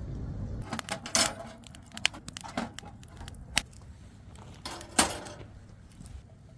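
Camp cooking gear and packaging being handled: a run of sharp metallic clinks and knocks with rustling between them, the loudest knock about five seconds in.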